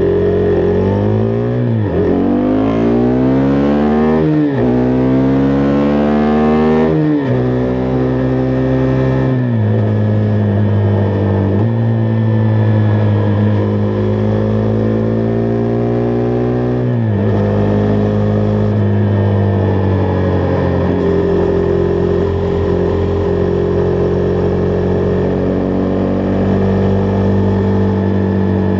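Husqvarna Vitpilen 401's single-cylinder engine accelerating through the gears: the pitch climbs and drops sharply with upshifts about two, four and a half and seven seconds in. It dips again a few more times up to about seventeen seconds, then holds a steady cruising note.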